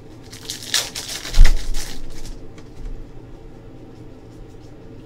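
Foil wrapper of a basketball card pack crinkling as it is torn open, with a dull thump on the table partway through, then quiet handling.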